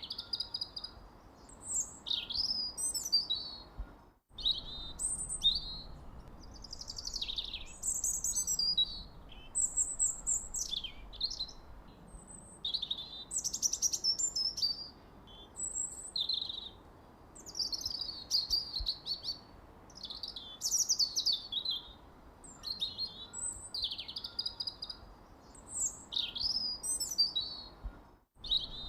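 Many birds chirping and twittering in a dense chorus of short, high, overlapping calls and trills. The sound cuts out completely for a split second about four seconds in and again near the end.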